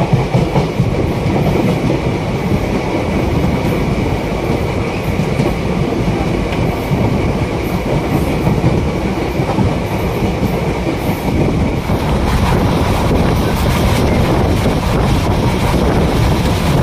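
Passenger train in motion, heard from aboard an Indian Railways sleeper coach: a steady rumble with the clickety-clack of wheels over rail joints, getting a little louder and rougher after about twelve seconds.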